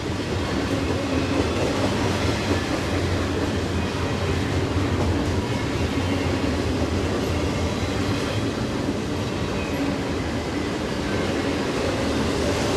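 Long double-stack container freight train rolling past, a steady rumble of steel wheels on rail with no let-up.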